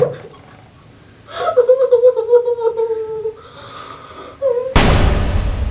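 A man's drawn-out, high whimpering cry lasting about two seconds, then a brief second whimper. Near the end it cuts suddenly to loud noise with a low rumble.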